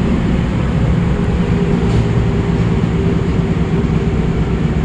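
Osaka Metro 22 series subway train running, a loud steady rumble of wheels and motors, with the wheels' flat spots that the uploader calls bad.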